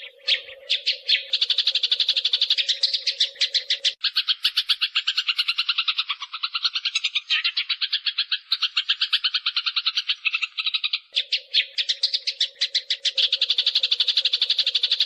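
Eurasian tree sparrows fighting, giving a dense, unbroken run of rapid, high chirps, about ten a second. A steady low hum runs beneath them for the first four seconds and returns at about eleven seconds.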